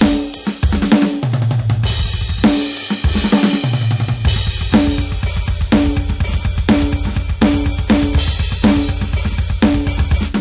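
Roland TD-17KVX electronic drum kit being played, its sound module's samples heard by direct line: kick, snare, toms and cymbals in a steady groove. About halfway through, a fast, continuous double-bass-drum run starts under regular snare hits about once a second.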